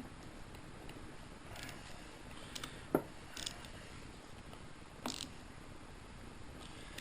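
A few faint, scattered clicks and clinks of hand tools on engine metal during teardown work, with one sharper click about three seconds in.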